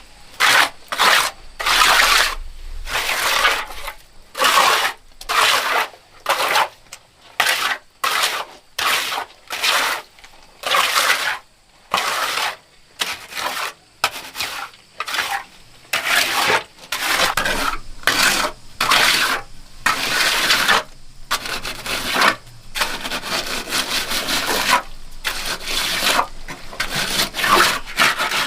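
Repeated rasping scrape strokes of a hand tool worked back and forth, about one to two a second, coming faster and closer together in the second half.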